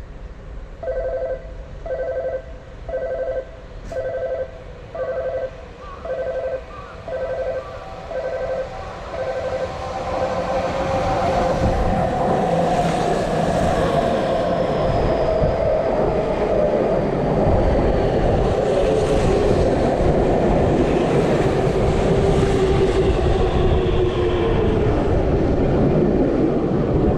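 Electronic warning beeps sound about once a second, some nine times. Then an out-of-service Tokyu electric train runs through the station without stopping, a loud sustained rush of wheels and motors that builds about ten seconds in.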